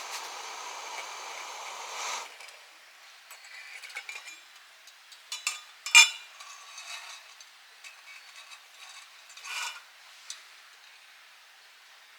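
A steady hiss that cuts off abruptly about two seconds in, then scattered clinks and scrapes of metal cookware and utensils, with one sharp clink about six seconds in.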